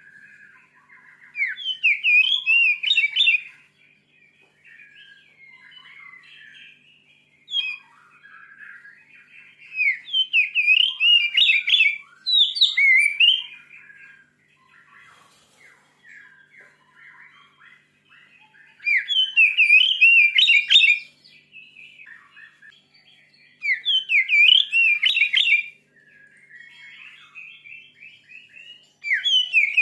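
Oriental magpie-robin (kacer) singing an aggressive song. Loud bursts of fast, varied whistled phrases, each about two seconds long, come every few seconds, with quieter twittering between them.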